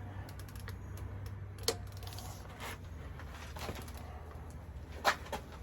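Click-type torque wrench breaking over as heavy bolts reach their set torque: two sharp clicks, one under two seconds in and another about five seconds in, with fainter tool ticks over a steady low hum.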